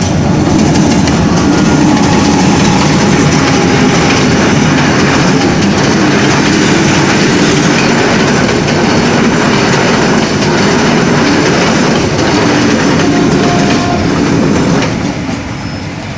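A train passing close by over a level crossing, its wheels clattering on the rails. The loud run of noise falls away about fifteen seconds in.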